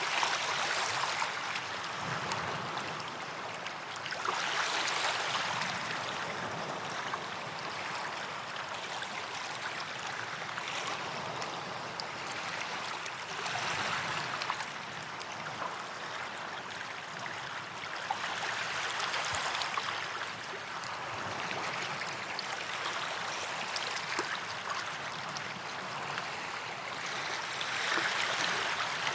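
Small waves breaking and washing up a sandy beach, a steady hiss of surf that swells every few seconds, with a fine fizz and crackle as the water runs back.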